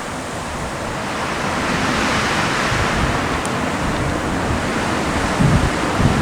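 Strong wind blowing in gusts and buffeting the microphone, a gust swelling about two seconds in.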